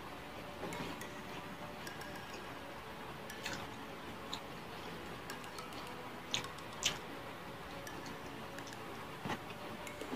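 A person eating rice by hand and chewing close to the microphone: soft mouth sounds with scattered sharp clicks and smacks, two louder ones about six and seven seconds in.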